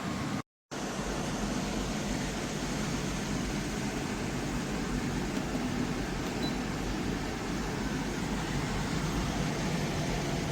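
KGOGO portable air conditioner running: a steady rush of fan air with a low hum underneath. The sound cuts out completely for a moment about half a second in.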